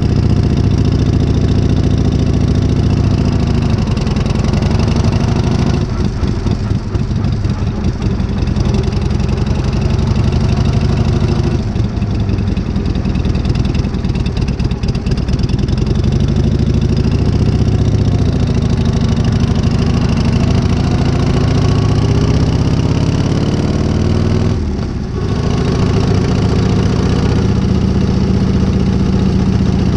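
1978 Harley-Davidson Shovelhead air-cooled V-twin running on a new S&S carburettor, mostly idling steadily. The revs sag briefly a few times and pick back up, most clearly a few seconds before the end.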